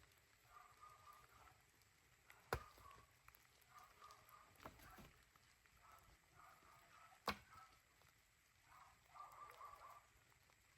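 Two sharp knocks about five seconds apart, with a weaker knock between them, typical of an axe striking firewood during chopping.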